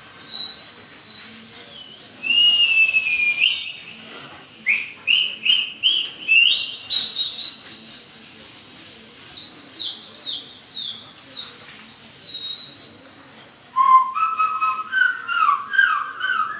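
High whistling tones from a 'weird sounds for dogs' clip played through a home-theatre speaker: quick swooping whistles, about two a second with brief pauses, and near the end a lower run of whistles that climbs in pitch.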